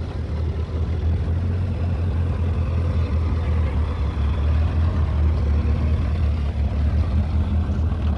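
Small vintage open car's engine running with a steady low rumble as the car drives slowly past.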